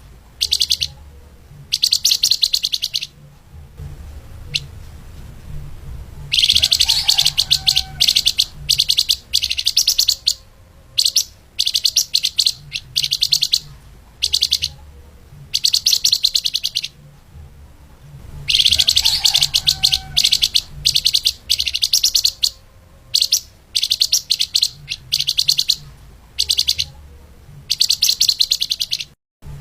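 Flamboyan (lemahan) songbird singing in fast, tightly packed bursts of high chattering notes, with short pauses between phrases and two longer runs of about two seconds.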